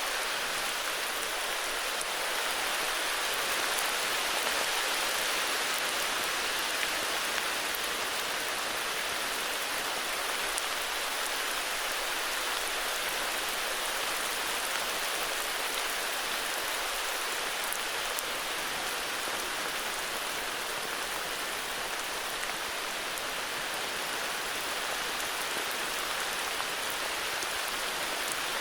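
Steady heavy rain falling, an even hiss of drops with faint scattered ticks of individual drops.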